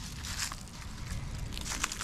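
Irregular crunching and crinkling, with sharp crackles about half a second in and a cluster near the end.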